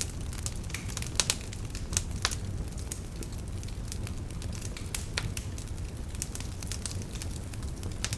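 Wood fire burning in a fireplace: logs crackling with scattered sharp pops, the loudest a quick pair about a second in, over a steady low rumble of the flames.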